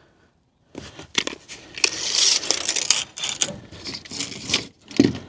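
Crinkling and rustling with many small clicks, the sound of building materials being handled and set in place, with a sharper knock about five seconds in.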